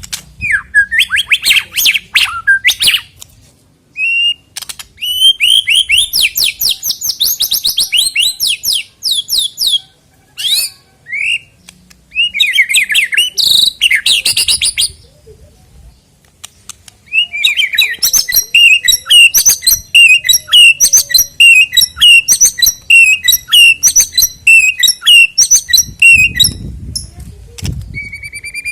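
White-rumped shama (murai batu) singing: rapid, varied phrases of whistles, trills and chattering notes. From about two-thirds of the way in, the song settles into a short chirped phrase repeated about twice a second. Near the end a low rumble lies under the song.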